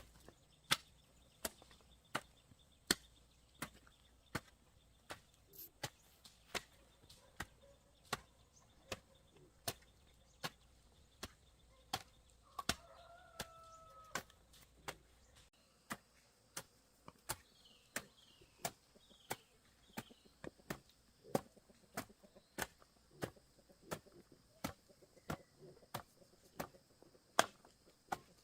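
Steady, regular chopping strikes, about three every two seconds. A short bird call is heard about halfway through, and faint chirps come a few seconds later.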